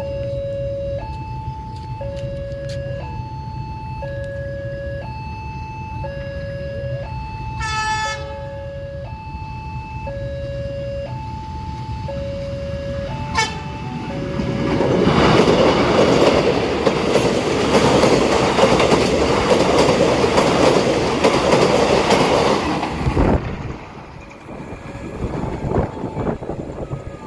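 Railway level-crossing warning alarm alternating between two tones about once a second, with two short horn toots. Partway through, a train passes close by for about eight seconds, its loud rumble drowning the alarm, then it is gone.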